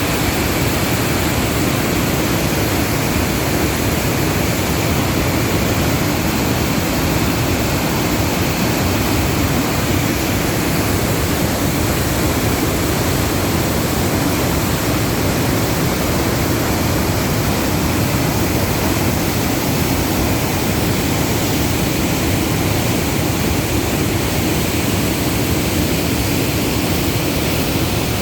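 Waterfall in flood: a loud, steady roar of falling water.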